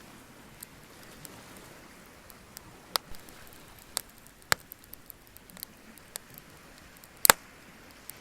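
Wood bonfire crackling, with irregular sharp pops, the loudest near the end.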